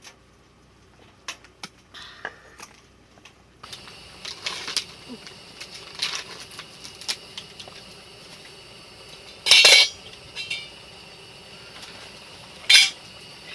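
Spoons, chopsticks and dishes clinking and scraping during a meal, with two louder clatters in the second half. A steady hiss sets in about four seconds in.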